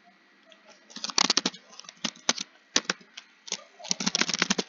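Computer keyboard typing: after about a second of quiet, keystrokes click in quick runs, fastest and densest near the end.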